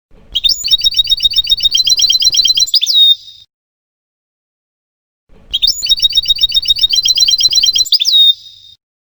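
European goldfinch song: a fast, even trill of high notes lasting about three seconds and ending in a sharp falling note, given twice about five seconds apart.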